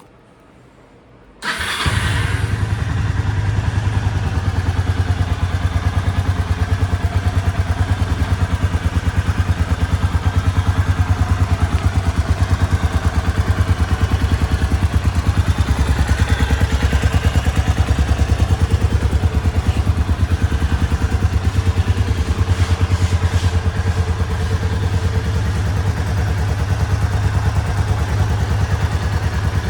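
1997 Kawasaki Estrella RS's 250 cc air-cooled single-cylinder four-stroke engine starting about a second and a half in, catching at once, then idling steadily with an even pulsing beat.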